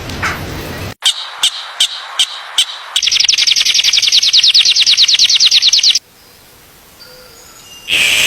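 High bird chirps repeated about three times a second, then a loud, fast trill for about three seconds that stops abruptly, with sudden cuts between the sounds.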